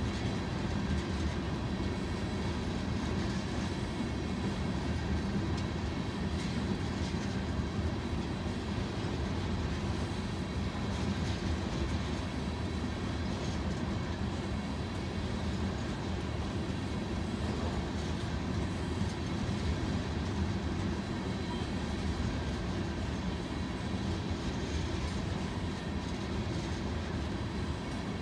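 Loaded aggregate hopper cars of a freight train rolling steadily past: a continuous, mostly low noise of steel wheels running on the rails.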